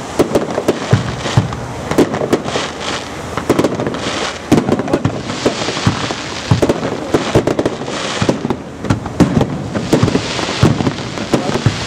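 Japanese fireworks star mine: many aerial shells launched and bursting in quick succession, giving a dense run of irregular loud bangs, several a second, over constant crackling.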